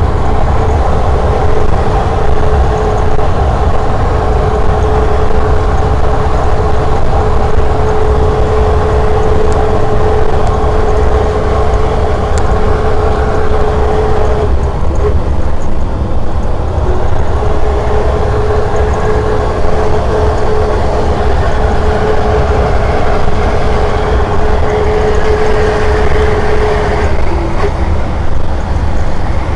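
Scania R500 truck's V8 diesel engine running hard under load on an uphill climb, a deep steady rumble with a high steady whine over it. The whine drops out about halfway through and returns a couple of seconds later.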